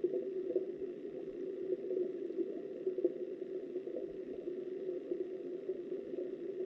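Stream water flowing, heard from underwater as a steady, muffled rush.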